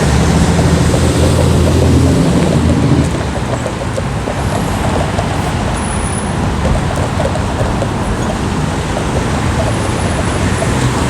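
Downtown street traffic in the rain. A large vehicle's engine drones low for about the first three seconds, then a steady hiss of traffic and rain carries on.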